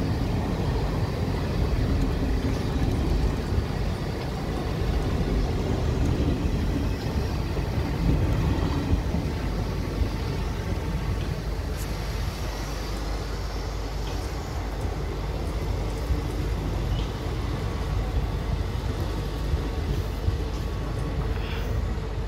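Railway wagons of a passing train rolling by close at hand: a steady rumble of steel wheels on the rails, a little louder in the first half.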